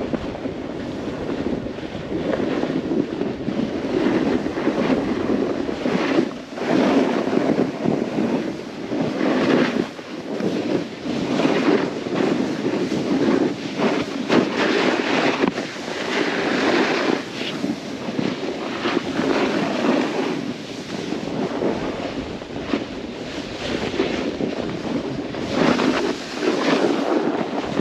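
Snowboard sliding and carving through snow, its edge scraping in swells every second or two, with wind rushing over the microphone.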